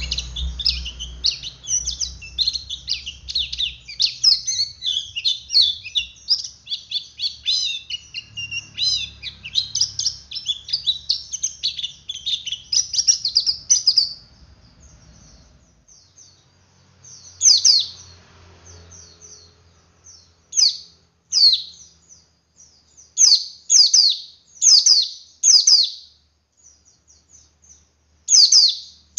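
Male white-eye (pleci) singing: a dense, rapid, high twittering chatter ('ngeriwik') fills the first half. It then breaks off into single sharp call notes that sweep downward in pitch, repeated at irregular intervals of about a second or more.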